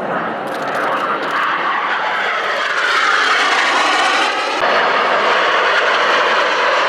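Military jet aircraft passing with a loud, steady rushing roar; about three to four seconds in, the sound takes on a sweeping, phasing character as the aircraft goes by.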